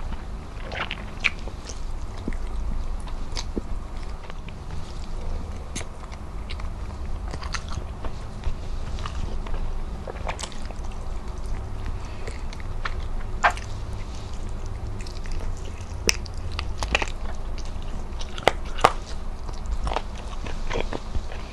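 Chewing and wet mouth sounds of a person eating rice and fried tilapia, with sharp irregular clicks scattered through.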